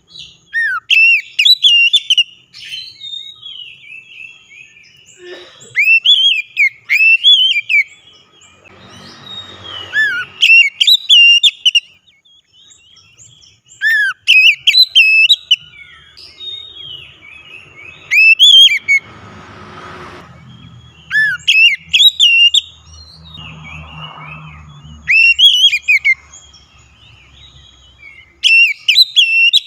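Oriental magpie-robin (kacer) song: loud, clear whistled phrases with fast up-and-down sweeps, given in bouts of one to three seconds every few seconds. Softer patches of hiss fall between some of the bouts. It is the kind of loud song used as a lure to set a quiet kacer singing.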